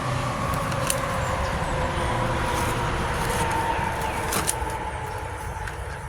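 A motor vehicle passing by, its engine note swelling and then slowly falling in pitch as it goes, with a couple of sharp clicks.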